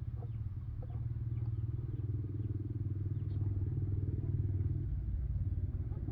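An engine running steadily with a fast, even pulse, changing in tone about five seconds in.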